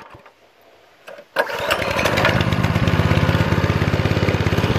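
Mini bike's small gasoline engine catching and starting about a second and a half in, then running steadily with a rapid, even beat.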